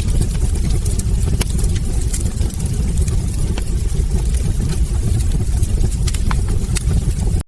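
Wood fire in a fireplace: the flames give a steady low rumble, with irregular sharp crackles and pops from the burning logs. The sound cuts out for an instant near the end.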